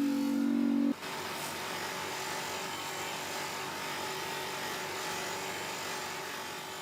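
A small power tool's motor runs with a steady hum and cuts off abruptly about a second in. It is followed by a steady scratchy abrasive noise, as of metal being scoured clean of rust.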